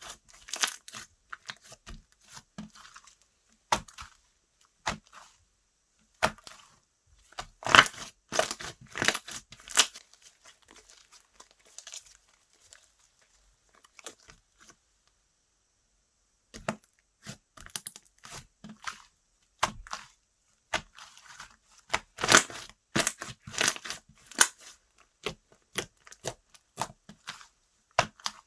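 Slime being handled, stretched and pressed by hand, giving irregular sticky pops, clicks and crackles, with a quiet lull about halfway through.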